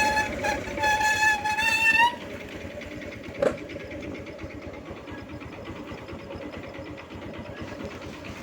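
A vehicle horn sounds as one long steady blast, broken briefly near the start, and cuts off about two seconds in. After it comes a quieter steady vehicle running noise, with a single short knock midway.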